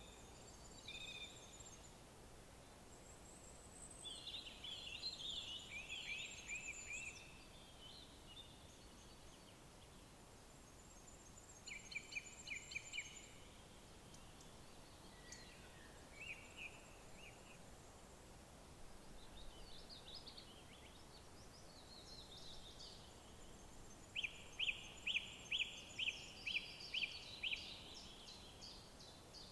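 Several small songbirds singing in woodland: scattered high, quick warbled phrases and thin trills. Near the end comes a loud run of about nine evenly repeated notes, roughly two or three a second. A faint steady hiss of background noise sits underneath.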